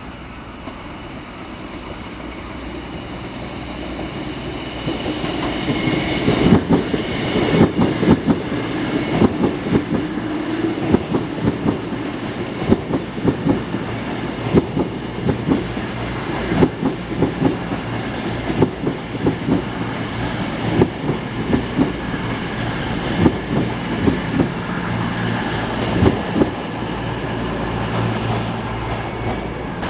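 A train running on the track: it grows louder over the first six seconds or so, then the wheels click over the rail joints in a long irregular run over a steady rumble, with a faint high whine above.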